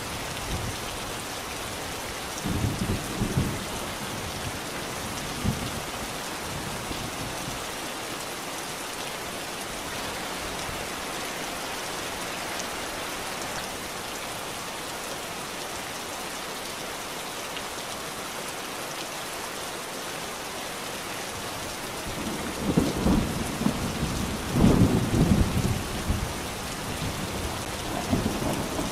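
Steady rainfall with low rumbles of thunder: short rolls a few seconds in, and a longer, louder roll in the last third.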